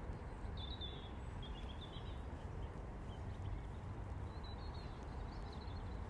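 A few short, faint bird chirps over a steady low outdoor rumble.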